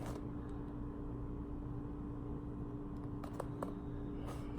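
Quiet room with a steady low electrical hum, and a few faint clicks near the end.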